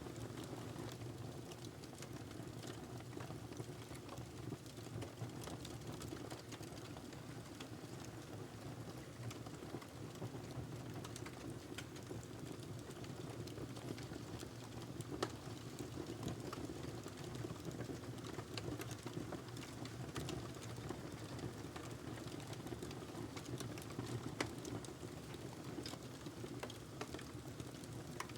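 Wood logs burning in a fireplace: a steady low rush of flame with frequent small crackles and snaps, and a couple of louder pops, one about halfway through and one later on.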